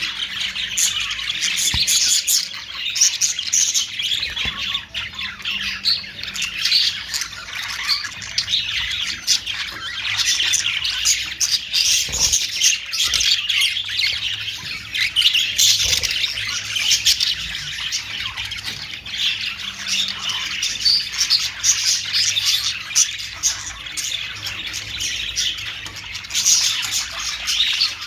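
A flock of budgerigars chattering non-stop: many overlapping high chirps and squawks with no pause.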